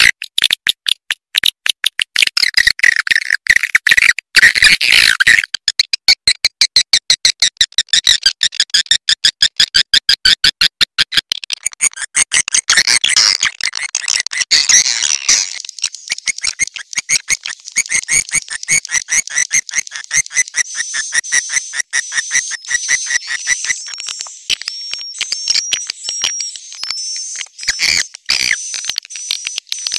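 Swiftlet call recording used as a lure for swiftlet houses: rapid, even clicking mixed with chattering twitters. About twelve seconds in it turns into denser chirping, and then into thin, high twitters over the clicking.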